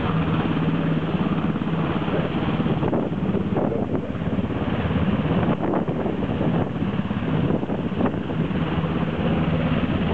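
Rescue helicopter running close by, a loud steady engine hum with rotor chop that wavers a little through the middle.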